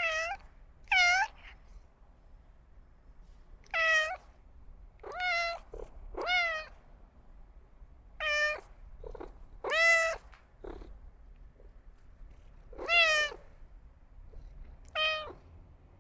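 Domestic cat meowing repeatedly: about nine separate meows spaced one to three seconds apart, each bending in pitch, with a few softer short sounds in between.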